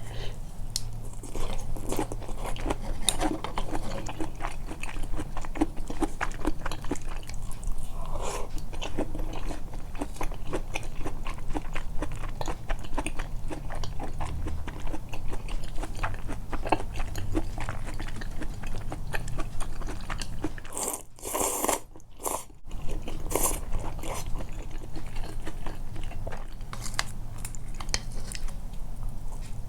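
Close-miked mouth sounds of someone chewing and biting food: continuous wet, irregular clicking and soft crunching, amplified on purpose, with a short pause in the chewing about two-thirds of the way through.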